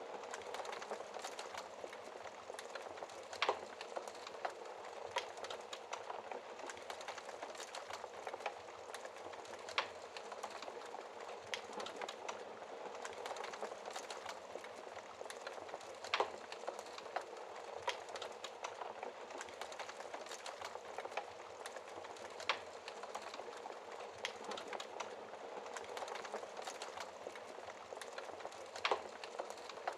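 Wood fire crackling in a fireplace: a steady hiss full of small crackles, with a sharper pop about every six seconds.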